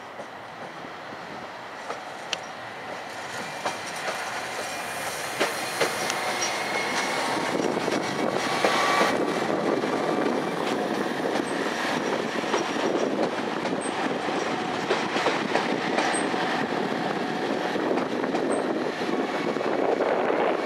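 SNCF Régiolis bi-mode multiple unit passing close on its diesel engines, wheels clicking over the rail joints with a faint squeal. It grows louder over the first eight seconds or so, then holds steady as the train goes by.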